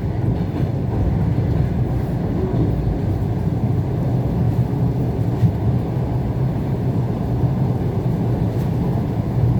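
ET2 electric multiple unit running along the line, a steady low rumble of wheels and running gear on the track heard inside the passenger car.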